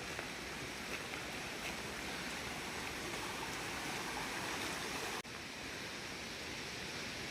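Steady rush of water from a rainforest waterfall and its stream, with a brief dropout about five seconds in.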